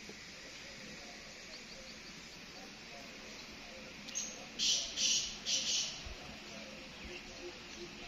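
Three harsh, scratchy bird calls in quick succession about four to six seconds in, over a faint steady background of outdoor ambience.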